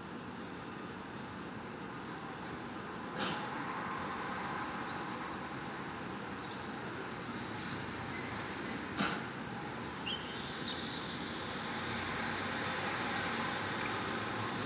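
Steady hum of city traffic, with a couple of sharp knocks and a brief, loud, high-pitched squeal near the end.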